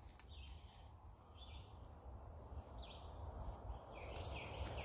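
Quiet outdoor ambience with a bird's short chirps: a few spaced-out notes, then several in quick succession near the end, over a faint low rumble.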